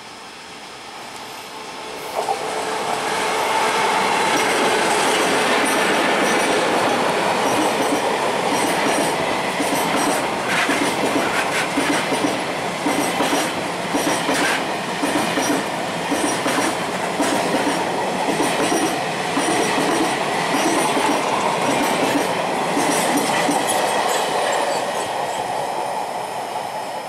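Freight train hauled by a Taiwan Railway electric locomotive, with flatcars of military trucks, running through the station without stopping. Its rumble swells about two seconds in as the locomotive arrives, then the wagon wheels keep clacking over the rail joints in a steady rhythm, easing slightly near the end as the guard van passes.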